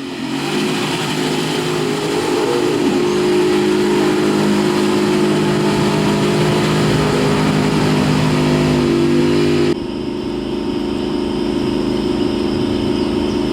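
Off-road 4x4 competition vehicle's engine running at high, fairly steady revs, climbing a little at first. The sound changes abruptly about ten seconds in.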